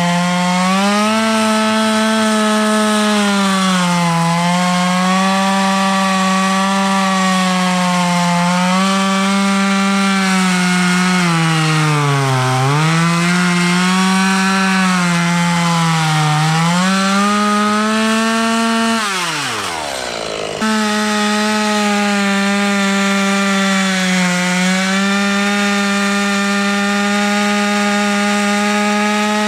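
Chainsaw running at high revs and cutting green ash, its pitch sagging again and again as the chain bites into the wood. About nineteen seconds in the engine winds down, then it cuts back in suddenly at full speed.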